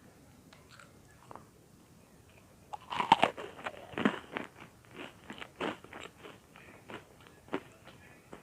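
Biting into crisp buttered bread-cube 'popcorn' (toasted bread cubes) about three seconds in, then crunchy chewing, roughly two crunches a second, fading near the end. The first few seconds hold only faint small clicks.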